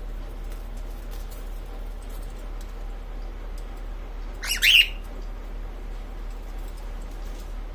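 Female cockatiel giving one short, loud squawk about halfway through, over a steady low hum.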